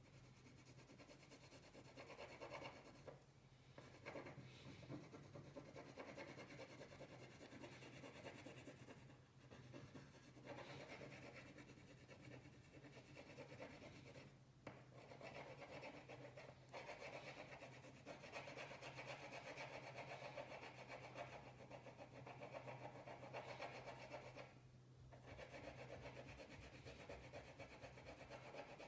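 Faint, scratchy strokes of a colouring tool rubbing back and forth across paper, with brief pauses every few seconds.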